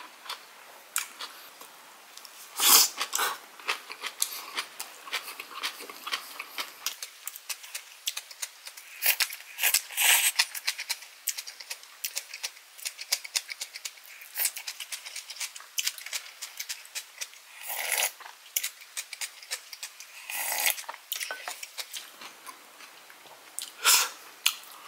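Close-miked chewing and mouth sounds of a person eating kimchi and rice: many small wet clicks and crackles, with a few louder bursts of chewing scattered through.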